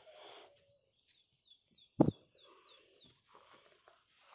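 A small bird chirping a quick run of short, falling high notes, about four a second, for a couple of seconds. About two seconds in, a single sharp knock is the loudest sound.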